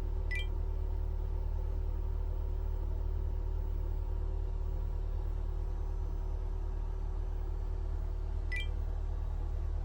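Steady low machine hum with two short electronic beeps, one near the start and one near the end.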